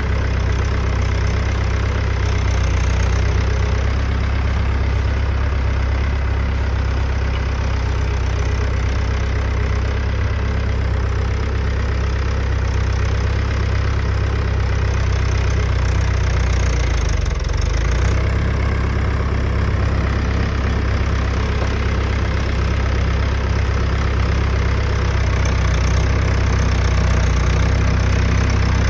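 Mahindra tractor's diesel engine idling steadily with a deep, even hum, with a brief change in the low hum about seventeen seconds in.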